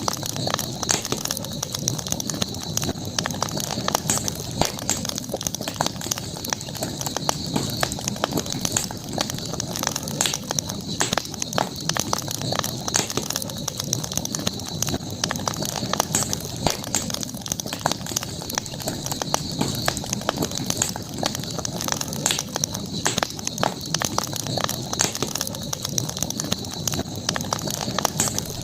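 Wood campfire burning, crackling with frequent irregular pops and snaps, over a steady high-pitched hum.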